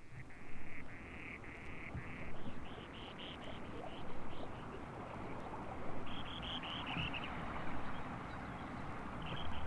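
Spoon-billed sandpiper singing: a run of high, buzzy trilled notes. Several longer notes open the run, then shorter ones about three a second. More runs follow around six seconds in and near the end, over a low steady rumble.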